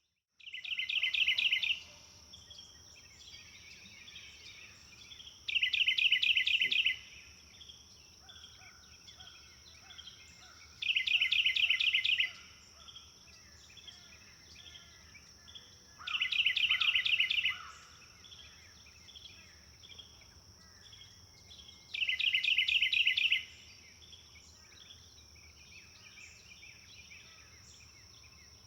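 A songbird repeating the same short song five times, about every five seconds: each song is a quick run of rapid, evenly spaced notes lasting just over a second. Between the songs there are fainter chirps from other birds, and a steady high drone continues underneath throughout.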